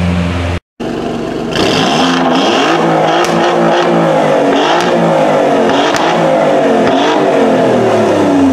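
Alfa Romeo Giulia Quadrifoglio's twin-turbo V6 revved again and again, its pitch rising and falling about once a second, with a few sharp cracks. It follows a brief steady idle from another car that cuts off in a short gap.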